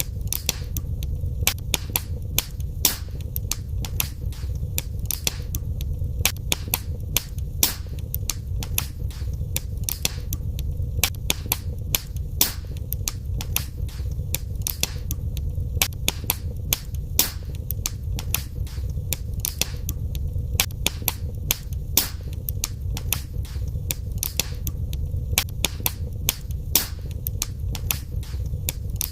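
Fire crackling in a fireplace: frequent sharp pops and snaps, several a second and uneven, over a steady low rumble of the flames.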